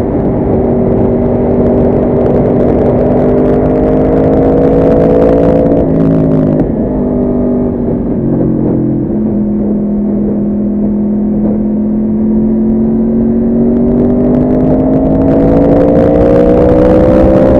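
Yamaha R1 sport bike's inline-four engine under way on track, holding its revs, then dropping in pitch in a few steps about six seconds in as it slows and shifts down. It runs low and level for several seconds, then climbs steadily in pitch as it accelerates again near the end.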